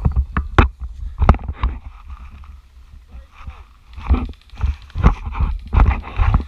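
A few sharp clicks or knocks in the first couple of seconds, then a run of scuffing and rustling noises, over a steady low rumble.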